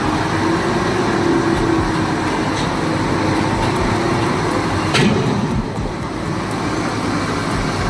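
Heavy truck's diesel engine running steadily under load, with a sharp knock about five seconds in.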